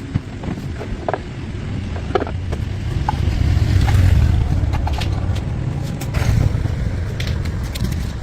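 Low engine rumble that swells to its loudest about halfway through and then eases off, with scattered clicks and knocks.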